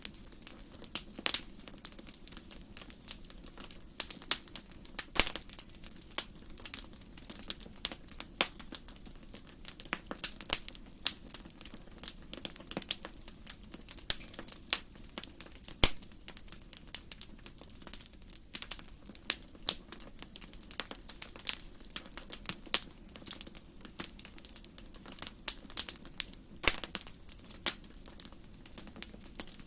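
Wood fire burning in a fireplace: irregular crackles and sharp pops over a low steady hiss.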